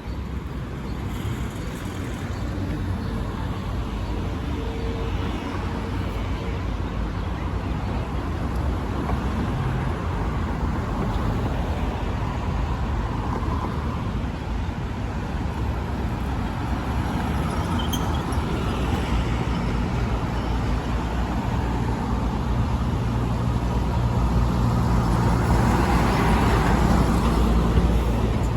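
City street traffic: cars and other road vehicles driving past with a steady rumble of engines and tyres. One vehicle grows louder as it passes close near the end.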